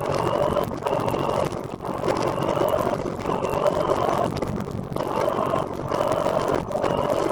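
Running noise from a moving recumbent trike: a steady rush that dips briefly every second or so.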